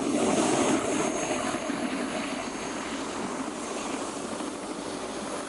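Helicopter running on its snow landing: a steady noise of engine and rotor, a little louder in the first second and then even.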